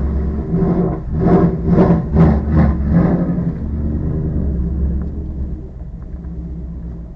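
Ford Mustang GT's 5.0 Coyote V8 engine running, with a quick run of about six loud surges a little under half a second apart during the first few seconds, then settling to a steady idle.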